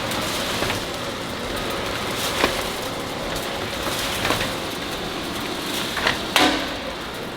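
Steady machinery noise in a precast concrete works, with a sharp knock roughly every two seconds and two knocks close together near the end.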